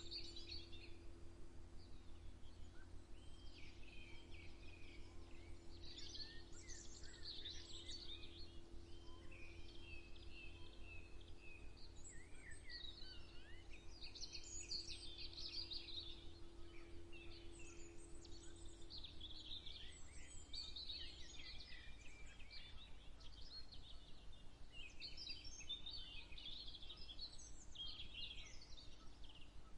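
Several birds singing and chirping, with overlapping warbles and short calls throughout, over a faint steady low hum. A steady tone under the song fades out about two-thirds of the way through.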